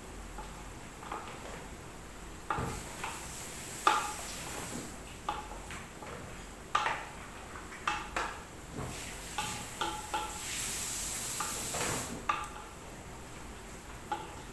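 A spoon knocking and scraping against the inside of a large cooking pot while spices and onion fry in oil, with a steady sizzle that swells about ten seconds in and drops off near the end.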